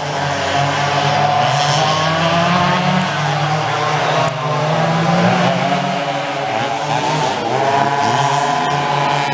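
Two-stroke engines of vintage dual rear engine racing karts running hard, their pitch rising and falling with the throttle. There is a brief dip about four seconds in, and in the later seconds more than one engine can be heard at different pitches.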